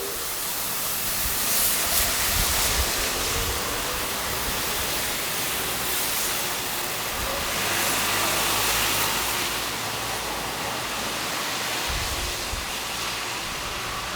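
Traffic on a wet, snowy street: tyres hissing through slush, swelling twice as vehicles pass.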